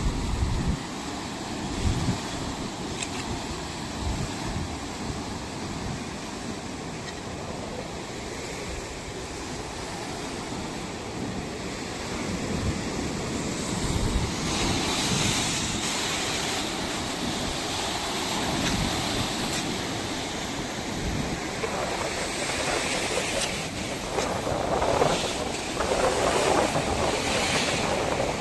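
Ocean surf breaking and washing up a beach, with wind buffeting the microphone. The wash swells louder about halfway through and again near the end.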